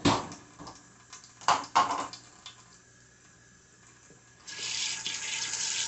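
Dishes knock and clink a few times. About four and a half seconds in, the kitchen tap is turned on and water runs steadily into the sink.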